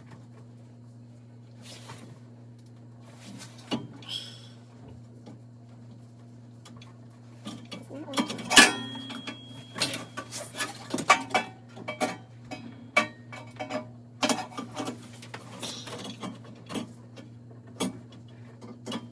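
Metal boiler parts and hand tools being handled: a run of sharp clinks, taps and rattles starting about halfway through, loudest early in the run, over a steady low hum.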